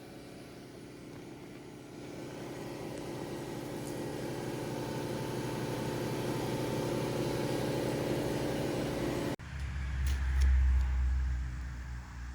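An engine running with a steady hum that grows louder over several seconds, then breaks off abruptly, followed by a heavy low rumble.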